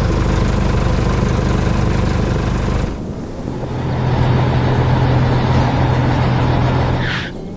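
Heavy construction-machine engine sound effect running steadily, which dips about three seconds in and comes back at a slightly different, steady pitch. A short rising whoosh comes near the end.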